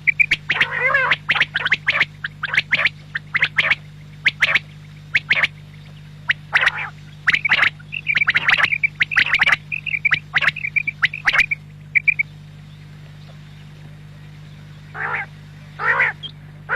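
Quail (batair) calling: quick runs of short, sharp notes and brief trilled phrases, breaking off for about three seconds past the middle before the calls start again. A steady low hum lies underneath.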